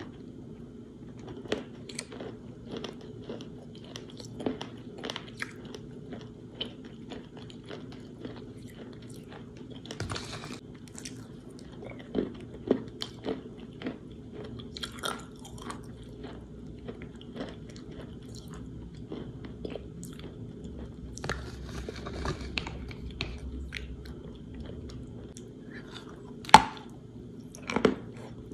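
Close-up chewing and crunching of water-soaked chalk pieces: many small crackles with louder crunches here and there, the sharpest crunch near the end.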